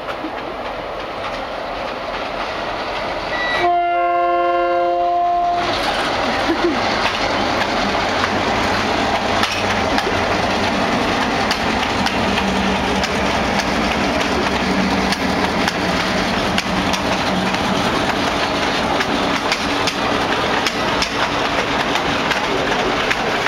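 Diesel freight train passing close by: one multi-note horn blast of about two seconds, about four seconds in, then the locomotives running and the steady clatter of wheels over the rail joints as the freight cars roll past.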